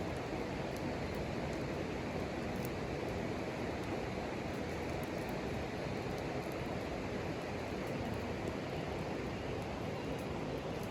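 Steady, even rushing noise with no pitch or rhythm, holding constant throughout, with a few faint ticks over it.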